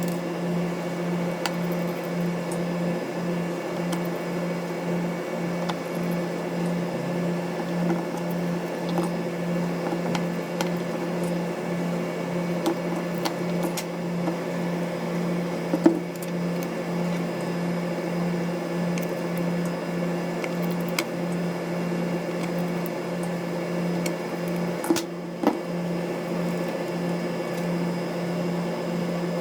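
A steady mechanical hum with a slight regular pulse runs throughout. Over it come scattered small clicks and taps, typical of tools and small parts being handled during camera disassembly; the most prominent are about halfway through and a couple near the end.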